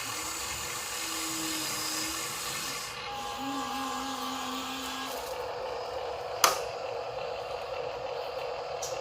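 Small electric motors and plastic gearing of a Huina RC dump truck whirring, the pitch shifting about three seconds in and again about five seconds in. A single sharp click about six and a half seconds in.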